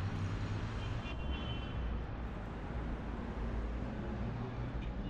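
Road traffic running steadily, a low rumble of passing vehicles, with a brief high-pitched tone about a second in.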